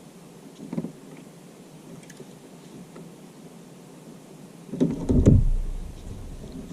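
Handling knocks on a plastic kayak while a fish is brought aboard: a light knock about a second in, then a loud, muffled thump with a deep rumble about five seconds in that fades over a second.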